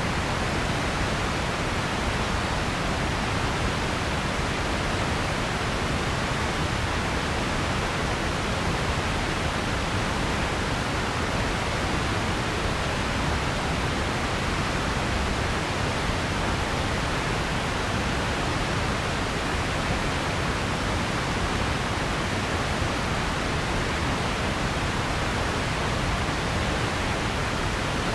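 Steady synthetic noise: an even, unchanging hiss spread across low and high frequencies, with no rhythm or events.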